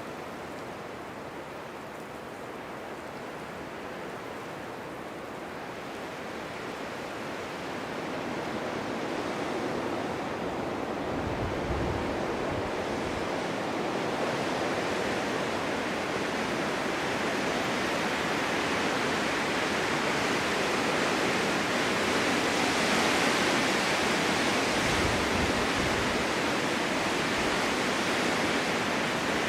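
Strong winter wind blowing through a snowstorm, a steady rushing that slowly builds in strength, with a couple of brief low rumbles from gusts.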